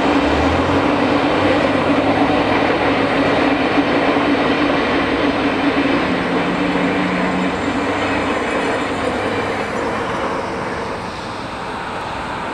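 Via Rail passenger train running by: a steady rumble of the diesel locomotive and rolling cars with a low hum, slowly fading over the last few seconds as the train draws away.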